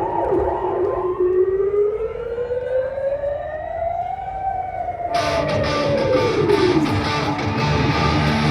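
Rock band playing live at concert volume. A siren-like wail rises slowly and then falls away, and about five seconds in the band crashes in with drums, cymbals and distorted electric guitars.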